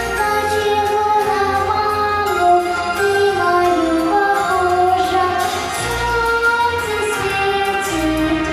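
A song sung by children's or female voices, melodic and sustained, over an instrumental backing track with a steady bass pulse.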